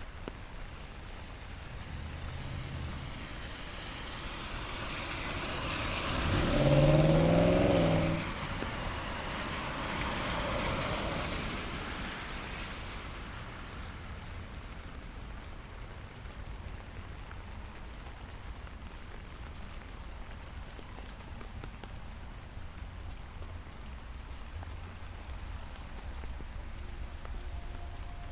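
Vehicles driving past on a wet street, tyres hissing on the wet road. The first, the loudest, passes close with a low engine drone; a second, fainter one follows a few seconds later. Steady light rain fills the rest.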